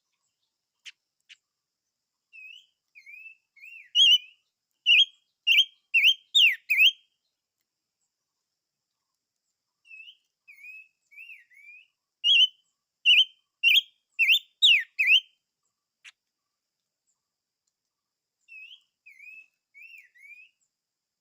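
A caged songbird sold as the 'five-coloured bird' (chim ngũ sắc) singing in three repeated whistled phrases. Each phrase opens with soft, falling notes and builds to a run of louder, sharp rising-and-falling notes. A few faint clicks fall between the phrases.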